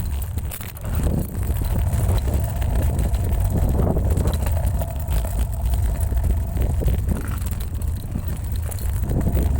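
Wind buffeting the microphone as a low, steady rumble while riding a kick scooter, with a faint steady hum underneath.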